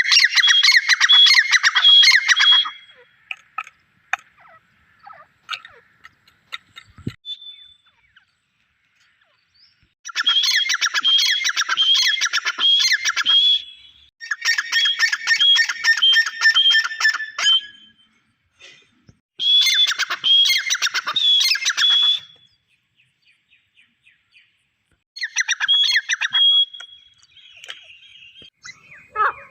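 Grey francolin (desi teetar) calling: five loud bouts of rapid, repeated high notes, each lasting a few seconds, with pauses between them.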